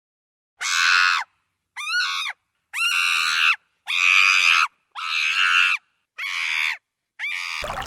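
An animal's shrill, scream-like calls, seven in a row, each under a second long and separated by silent gaps; the second call is shorter, with a rising-then-falling pitch.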